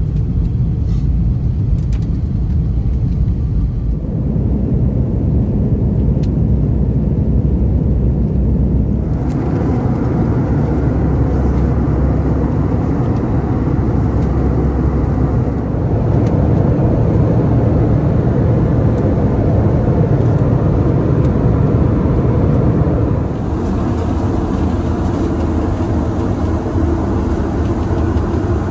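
Steady low rumble inside a jet airliner cabin, the engines and airflow. The sound shifts in character a few times.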